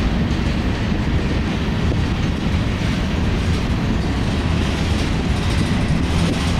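Freight train of boxcars and covered hopper cars rolling past close by: a steady rumble of steel wheels on the rails.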